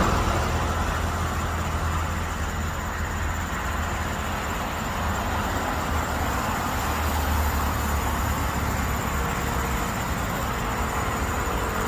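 Steady low rumble with an even hiss over it and no distinct events, the kind of background noise heard from traffic or machinery.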